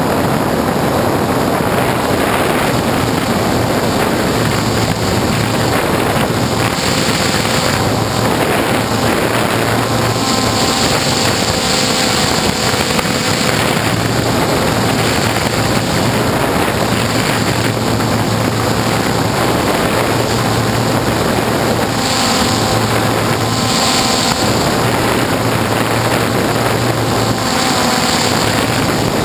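DJI F450 quadcopter's motors and propellers running in flight, a steady loud whirring hiss with wind on the microphone. Its pitch shifts several times.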